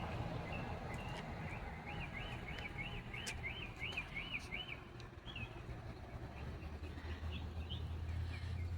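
A songbird singing a run of quick, repeated rising-and-falling whistled notes, about four a second, followed by scattered chirps. A low rumble grows louder in the last few seconds.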